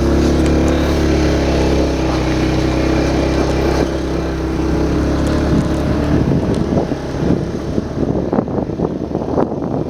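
Motorcycle engine running at steady revs, which falls away about six seconds in.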